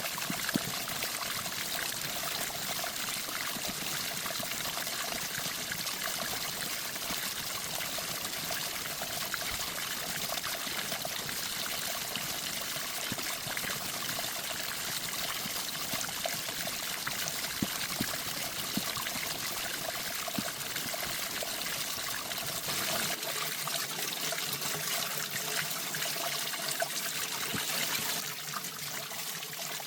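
Water running and trickling steadily. The lowest rumble drops away about three-quarters of the way through, and it gets a little quieter near the end.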